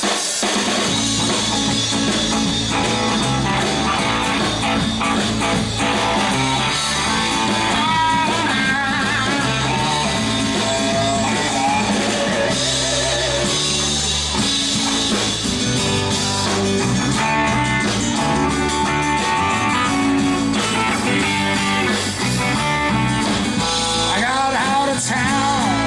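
Live band music: an instrumental stretch with guitar over bass and drums.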